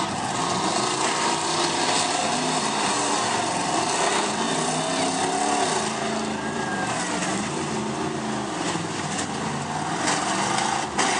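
Several truck engines revving up and down at once, their pitches rising and falling over one another, over a steady hiss of noise.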